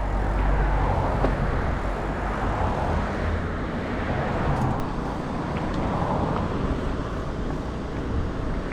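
Steady rushing noise of wind over the microphone and tyres rolling while riding a mountain bike.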